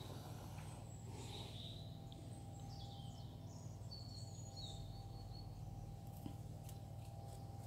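Faint bird chirps, several short high calls in the first half, over a steady low background hum, with a few soft clicks near the end.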